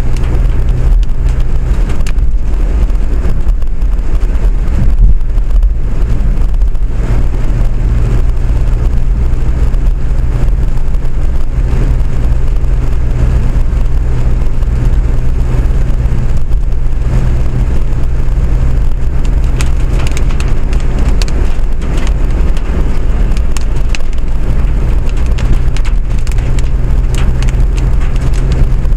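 Steady running noise of a vehicle in motion heard from inside, a constant low hum under a wash of noise, with a few light clicks near the end.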